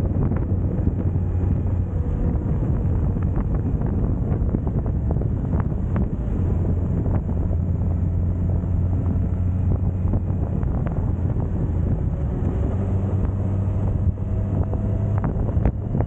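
Suzuki GSX1250FA motorcycle's inline-four engine running at a steady cruise, heard through heavy wind rush on the microphone.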